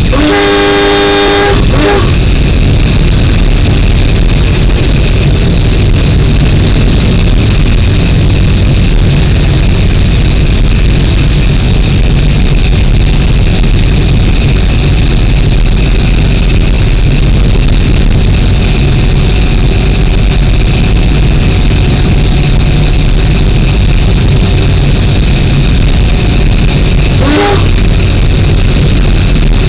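Train running steadily, heard from the driver's cab: a loud continuous running drone with a low hum. The train's horn sounds for about two seconds at the start, and gives a second short blast near the end as a road crossing comes up.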